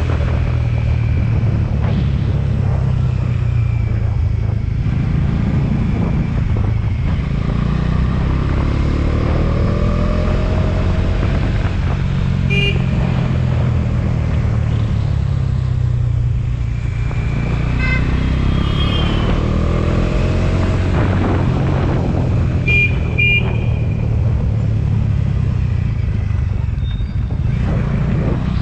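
Motorcycle engine running steadily under way, with road and wind noise. Its pitch rises and falls twice, about a third of the way in and again past the middle. Two brief high beeps, like a horn, come in the middle and later on.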